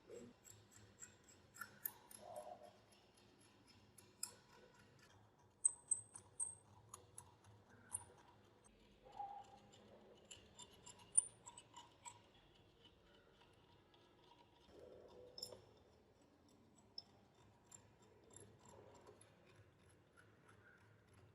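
Scattered small clicks and taps of a rusty metal paint spray gun and its parts being handled, some sharper than others.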